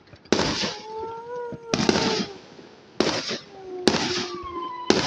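Fireworks going off: five sharp bangs roughly a second apart, each trailing off.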